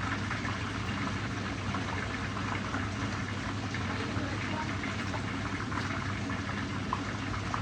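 Fish frying in hot oil in a saucepan: a steady sizzle with small scattered crackles.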